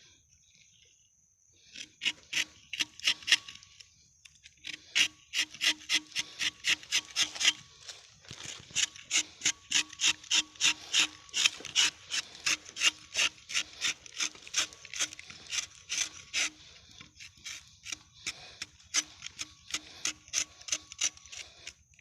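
A rubber-tapping knife scraping through the bark of a rubber tree in quick repeated short strokes, about three or four a second, with two brief pauses.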